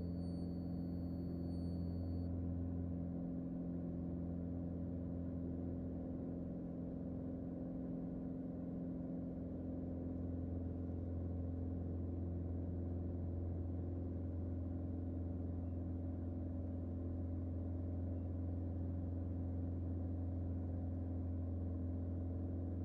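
Single-engine Mooney M20J's four-cylinder Lycoming IO-360 engine and propeller droning steadily at climb power, heard inside the cabin: a constant low hum with a few steady tones above it.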